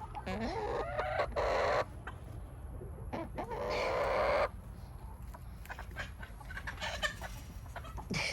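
A rooster crowing twice, each crow about a second and a half long, the first opening with a rising pitch, with chickens clucking in between.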